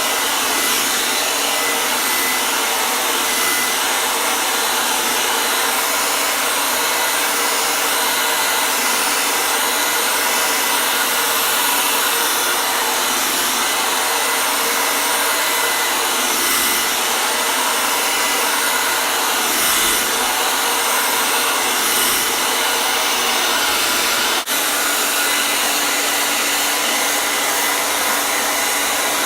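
Hair dryer running steadily, an even airy rush with a faint steady hum in it. There is a brief dropout with a click about 24 seconds in, then the same rush carries on.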